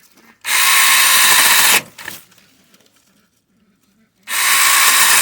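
Tingmengte 6-inch battery-powered mini chainsaw running in two bursts of about a second and a half each, a few seconds apart, cutting bush branches.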